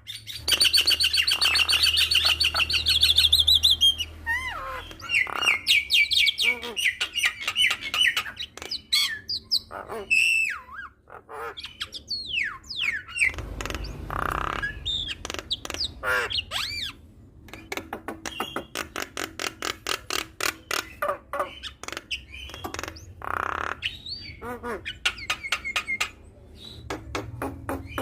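Javan myna singing a long, varied song: harsh buzzy notes at the start, then rising and falling whistles, then fast rattling runs of clicks in the second half.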